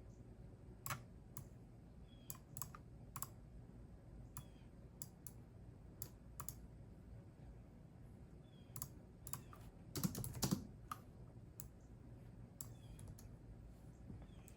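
Typing on a computer keyboard: scattered single keystrokes, then a quick run of several keys about ten seconds in, the loudest moment. Faint short bird chirps come from outside now and then.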